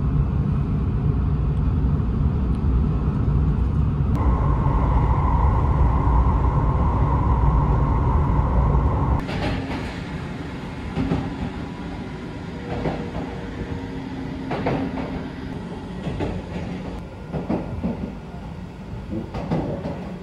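Seibu 001 series Laview limited express running, heard from inside the car. A loud low rumble is joined by a steady higher hum about four seconds in. About nine seconds in it drops to quieter running noise with occasional short knocks.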